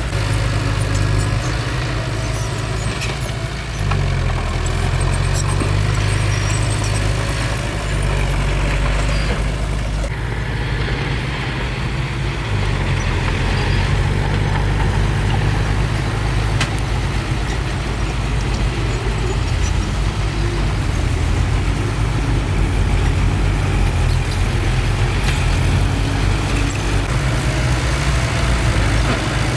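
Bulldozer's heavy diesel engine running steadily, with small shifts in level every few seconds as it works.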